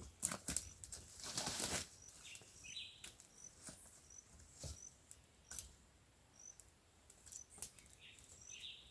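Rustling and crackling of dry brush and twigs, loudest about a second and a half in, with scattered snaps. Over it a small bird gives short high chirps every second or so.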